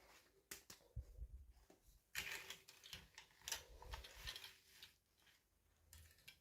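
Hands handling small plastic toy pieces and packaging: faint clicks and taps, with a busier stretch of crinkling rustle from about two seconds in.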